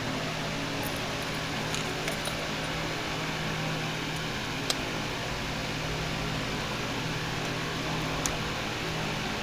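Steady mechanical hum, like a fan running, with a few faint, sparse clicks.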